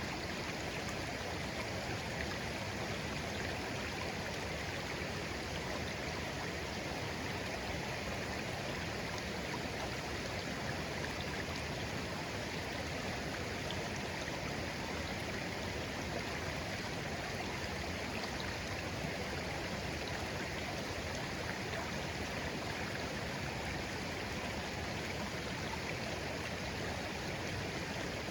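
Shallow stream of clear water flowing steadily, a gentle, even babbling rush.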